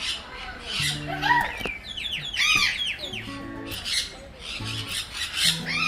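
Captive birds calling in rapid short chirps and squawks, each call rising and falling in pitch, thickest about two to three seconds in. Music with low held notes plays beneath them.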